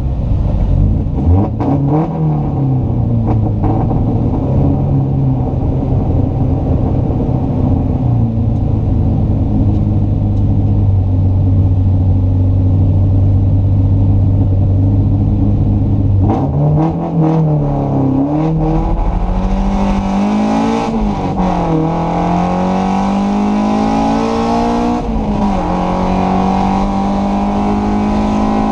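BMW 02 race car's four-cylinder engine, heard from inside the cabin: it is blipped up and down, then held at steady high revs, and about sixteen seconds in the car launches and the engine climbs through the gears, its pitch rising and dropping back at each upshift.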